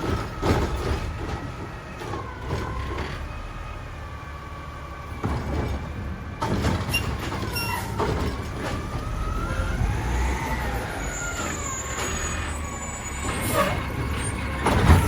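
Mack LR garbage truck with a Heil Durapack Rapid Rail side-loader body running, with a whine that glides up and down in pitch as it revs, and several clanks and bangs, the loudest near the end.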